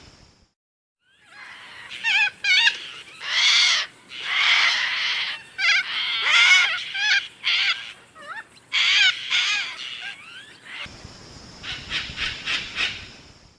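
A run of animal calls: many short, pitched cries and a few longer ones, several in quick succession, beginning after a short silence.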